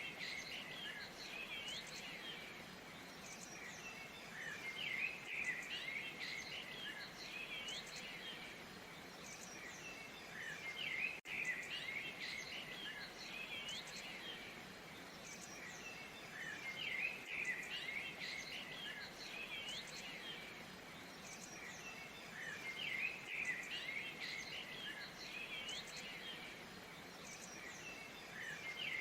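Birds chirping and twittering in busy clusters that come back about every six seconds, over a steady soft rushing hiss of a waterfall.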